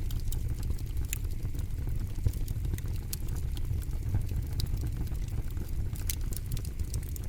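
Campfire crackling: a steady low rumble of burning wood with frequent, irregular sharp pops and snaps.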